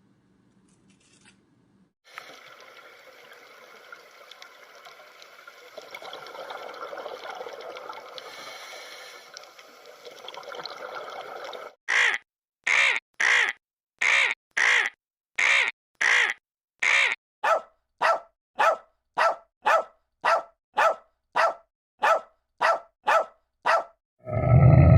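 An animal call, short and harsh, repeated about twenty times in a steady rhythm of roughly one and a half a second, after several seconds of faint background noise.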